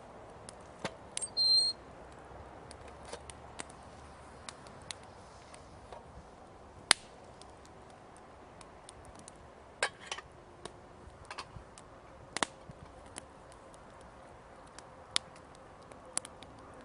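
Wood campfire crackling, with irregular sharp snaps and pops scattered throughout. A brief high-pitched whistle-like tone sounds about a second and a half in, the loudest thing heard.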